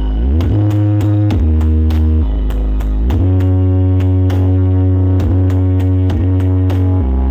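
Loud bass-heavy dance music played through a huge 'horeg' street sound system. Deep bass notes slide and change, then one is held from about three seconds in, under sharp percussive hits about twice a second.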